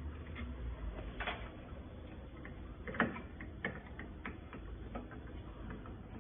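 Screwdriver backing out the screws that hold a solenoid valve: small irregular metallic clicks and taps, the sharpest about three seconds in.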